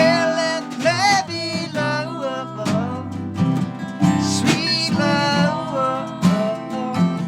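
Live band music: strummed acoustic guitar under a melody line whose notes bend and slide.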